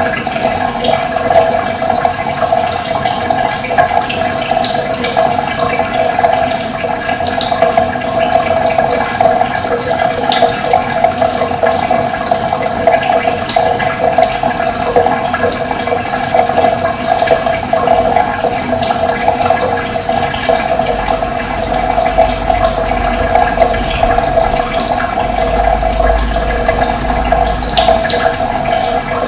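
Running water flowing steadily with a continuous rushing sound. A low rumble joins in for several seconds near the end.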